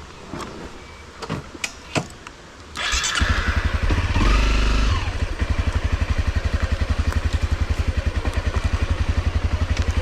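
A few sharp clicks, then an off-road motorcycle engine starts about three seconds in. It revs briefly and settles into a steady, rhythmic idle.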